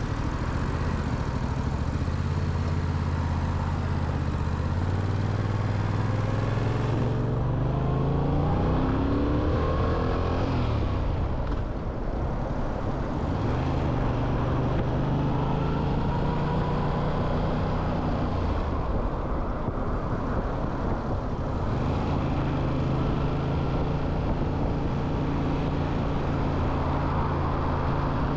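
Motorcycle engine accelerating with its pitch rising, easing off about ten seconds in, then pulling up again and later holding a steady pitch, over constant road and wind noise.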